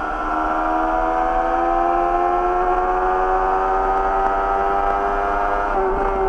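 Yamaha YZF-R6 inline-four engine through an Akrapovic slip-on exhaust, pulling under throttle with its note climbing slowly in pitch. The note breaks briefly near the end and then settles a little lower.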